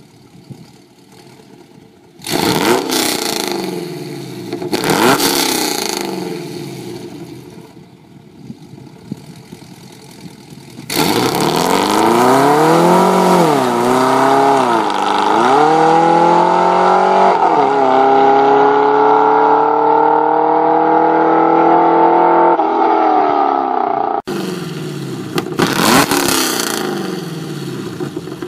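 2011 Camaro SS's 6.2-litre L99 V8 with long-tube headers revving twice in quick swells. About 11 seconds in it goes to a long full-throttle acceleration: the pitch climbs and dips three times at the automatic's upshifts, then rises steadily until the throttle closes. It revs once more near the end.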